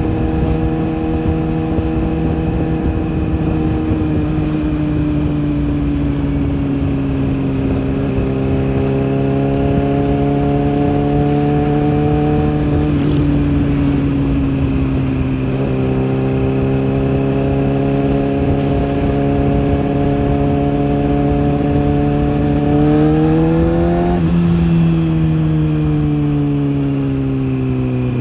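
Kawasaki ZX-6R inline-four engine running through its exhaust at steady mid revs, its pitch drifting gently down and up with small throttle changes, with a short rise and drop near the end.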